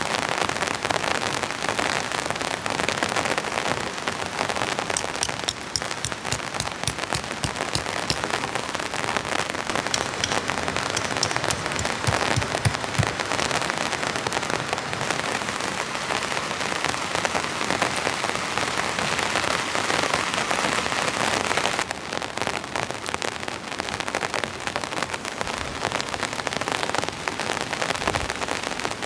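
Heavy rain falling steadily, with many close, sharp drop hits through the even hiss.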